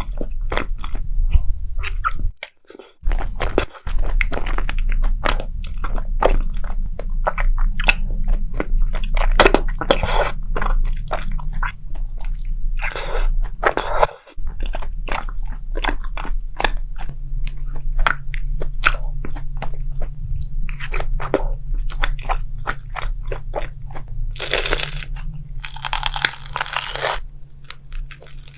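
Crunchy food being bitten and chewed close to the microphone: a dense run of sharp crunches, with a few longer, louder crunching stretches near the middle and near the end, over a steady low hum.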